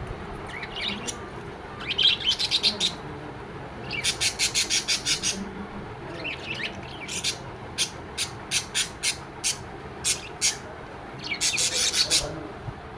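Pet lovebirds chirping: quick runs of sharp, high chirps, several a second, with single chirps spaced out between the runs.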